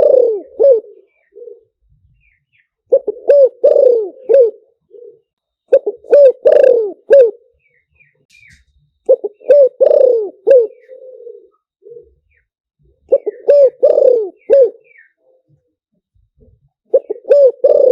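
Spotted dove cooing: a phrase of several notes with a softer trailing note, repeated about every three to four seconds, five phrases in all. This is the call used as a decoy to lure spotted doves.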